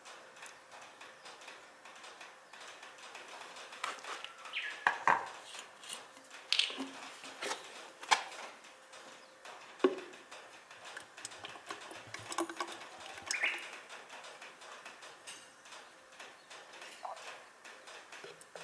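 Scattered clicks, clinks and knocks of small metal tools and parts being handled, irregular and a few seconds apart.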